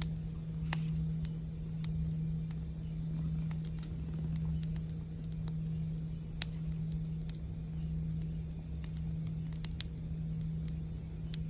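A singing bowl's low, steady hum, wavering in slow swells, over a crackling campfire whose sharp pops come a handful of times.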